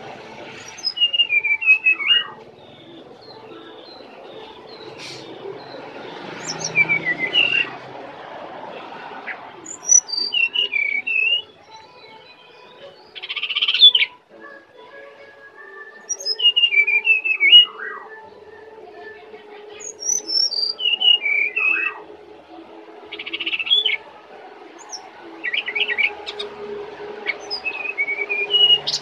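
Brown-chested jungle flycatcher singing: six short phrases of quick, clear whistled notes that rise and fall, coming every few seconds. Two short rough noisy bursts fall between phrases, and a faint steady hum runs underneath.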